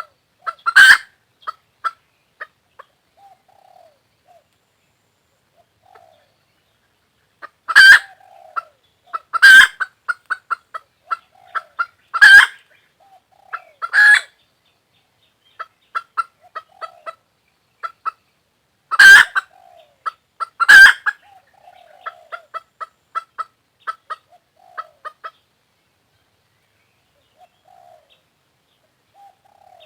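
Hen calling: three pairs of loud, short squawks, each followed by a quick run of rapid clucks, with soft, low clucks in between.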